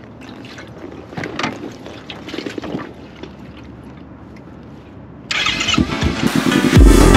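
Motorcycle engine starting, with a few uneven bursts of sound between about one and three seconds in. Electronic dance music cuts in suddenly about five seconds in and becomes the loudest sound.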